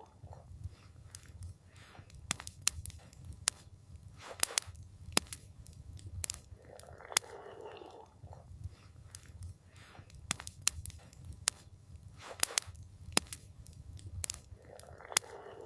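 Campfire crackling, with frequent sharp irregular pops over a steady low rumble. A brief soft hushing noise comes twice, about halfway through and near the end.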